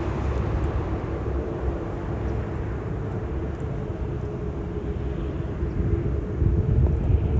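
Jet airliner engines rumbling steadily, with a low hum running under it. A higher hiss fades away over the first second.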